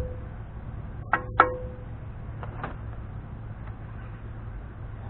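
Hand tools working the spindle nut of a Dana 44 front wheel hub: two sharp metallic clinks a moment apart, each with a brief ring, then two fainter taps, over a steady low hum.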